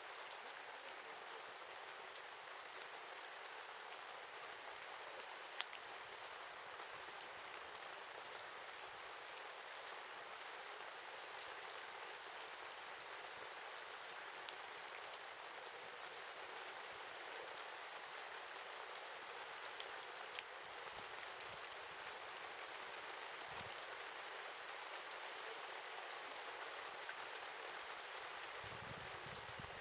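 Wood campfire crackling: a steady hiss with scattered sharp pops and snaps, a few of them louder.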